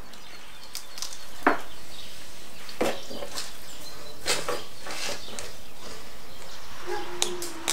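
Scattered wet knocks and clicks as the severed head of a large grouper is handled and set down on a stone counter beside a wooden cutting board.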